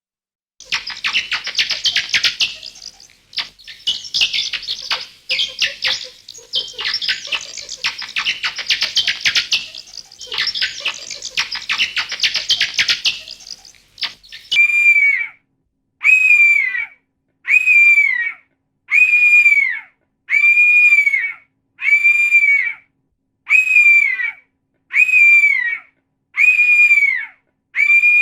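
A creature-like horror sound effect: rapid high chattering clicks in several bursts of two to three seconds, then a run of about ten shrill shrieks, evenly spaced about one every second and a half, each arching up and falling away.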